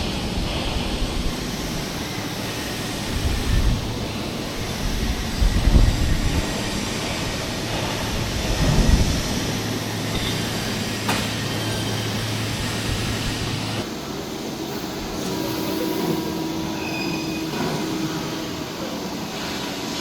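CNC tandem press brake running: steady machine noise with a low hum that stops about fourteen seconds in, and a few heavier low surges in the first half.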